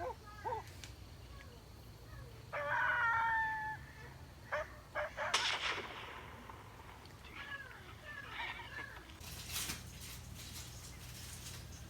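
Animal calls: several short calls, then a call about a second long about three seconds in, followed by more short calls and a few crackling noises.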